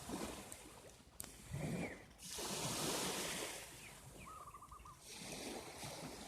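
Waves washing in and drawing back in repeated swells. A few short bird calls sound over them, including a quick trill of rapid notes a little past the middle.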